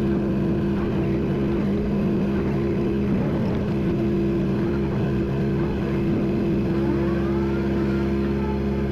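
A vehicle engine running steadily under work. About seven seconds in its note changes and settles into a smoother, steadier hum.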